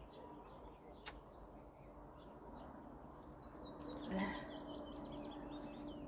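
Faint outdoor ambience with small birds chirping: a run of quick falling chirps about three seconds in, and a single click about a second in.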